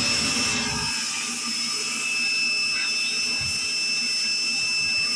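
A small electric motor-driven cleaning tool running steadily with a high-pitched whine over a rushing hiss, after spinning up just before.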